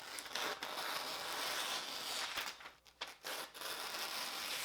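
Steel blade being rubbed across a sharpening surface, a continuous scraping hiss broken by a couple of short pauses between strokes.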